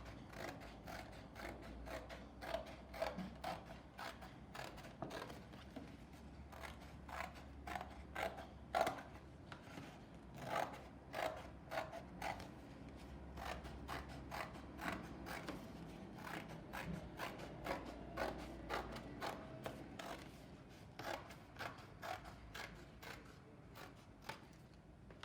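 Scissors cutting through thin cardboard from a cereal box, a run of irregular crisp snips around a circle outline.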